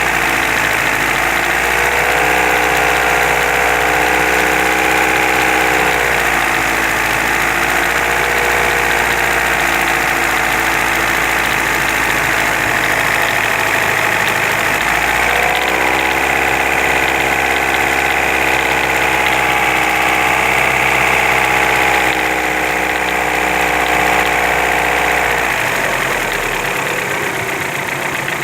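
Car engine running with a knock whose source is being hunted. Its speed rises just after the start, falls back about six seconds in, rises again at about fifteen seconds and drops back near the end.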